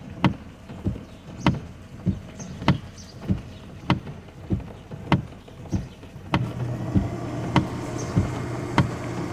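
Car turn-signal or hazard flasher ticking in a steady tick-tock, a louder click about every 1.2 seconds with a softer one between. About six seconds in a steady low hum joins, like the car's engine or fan starting up.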